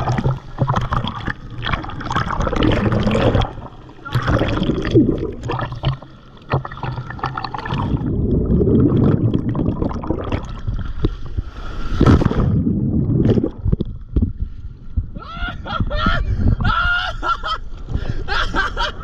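Choppy shore surf surging and splashing around a handheld GoPro at the waterline, with gurgling as the camera dips under the water in repeated surges.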